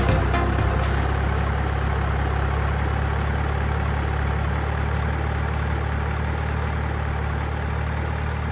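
A low, heavy engine idling steadily and evenly, with the tail of electronic music cutting off about a second in.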